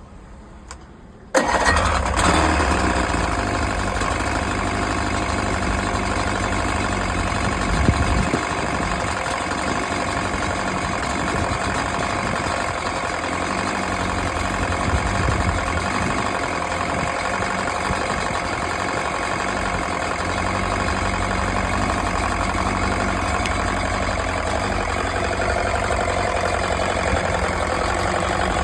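Rebuilt Chrysler 105 two-stroke outboard motor cold-starting: it catches suddenly about a second in and then runs steadily, with one brief rise in level about eight seconds in.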